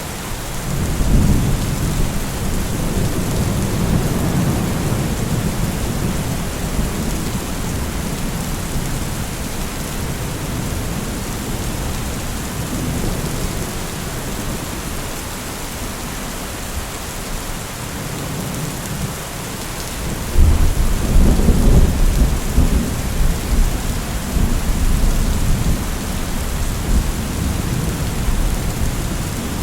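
Thunderstorm: steady heavy rain with rolling thunder, one rumble near the start and a louder crack of thunder about twenty seconds in that rolls on to the end.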